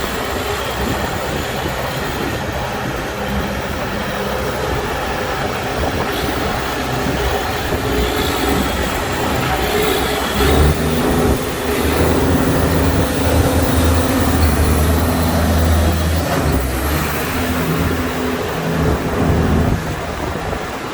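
2012 Versatile 305 MFWD tractor's diesel engine running with a heavy mechanical rumble. It grows louder about halfway through and eases back a few seconds later.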